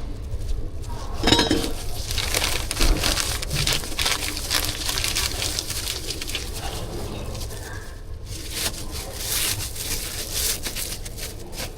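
Clattering and clinking of utensils and food containers with rustling: a dense, irregular run of small knocks and scrapes.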